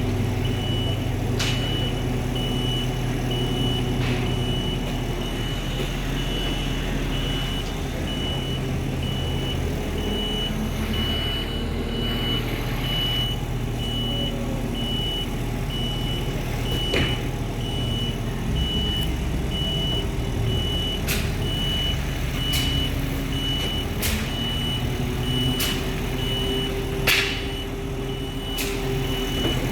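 Crane engine running steadily under load while it lifts an excavator, with a high warning beeper sounding in steady repeated beeps. A few sharp knocks come through now and then.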